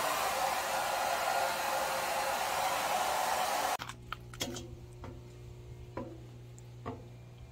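A steady rushing hiss that cuts off suddenly about four seconds in, leaving a quieter low steady hum with a few light clicks.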